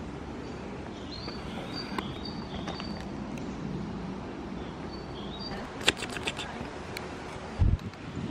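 Woodland ambience with short high bird chirps, a few sharp clicks about six seconds in, and a brief low rumble of wind on the microphone near the end.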